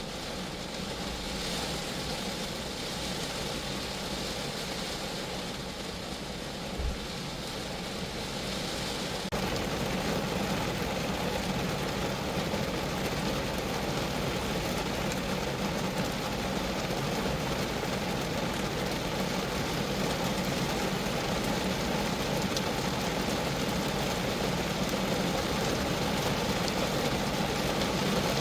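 Rain falling steadily on the body of a Geo Metro car, growing louder about nine seconds in. A brief low thump comes about seven seconds in.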